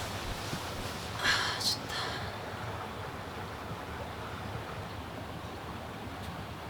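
A steady rushing noise, with two brief scratchy bursts between about one and two seconds in.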